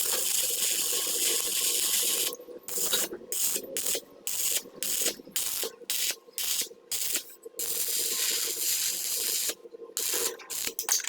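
A ratcheting power tool, likely air-driven, running with a hissing rattle. It runs for about two seconds, then in short trigger bursts of roughly two a second, runs steadily again for about two seconds past the middle, and ends with more short bursts.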